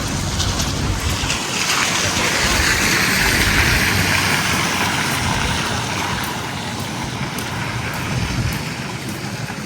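A vehicle passing on a wet, slushy street: tyre hiss that swells, peaks about halfway through and fades, over a steady low rumble of traffic.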